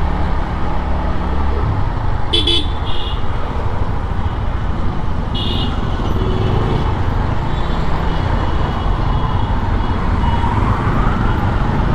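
Motorcycle riding through city traffic: steady engine and road rumble, with short vehicle horn toots about two and a half seconds in and again about five and a half seconds in.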